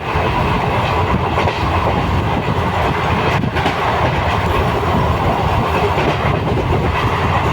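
A Chennai suburban train running steadily on the rails.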